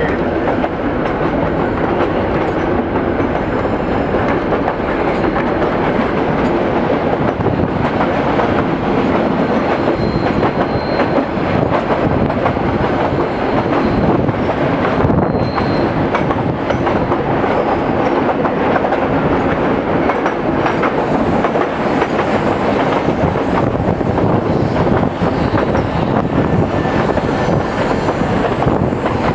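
Nilgiri Mountain Railway passenger train running on its metre-gauge track, heard from an open carriage window. The noise of wheels on rails is loud and steady, with constant small clicks and rattles and rushing air.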